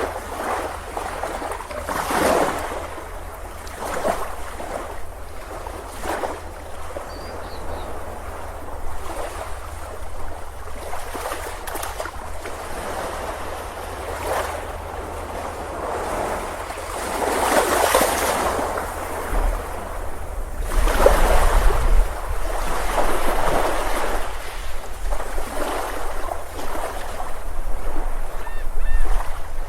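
Ocean surf on a beach: waves breaking and washing in, swelling and fading in repeated surges, the biggest a little past halfway.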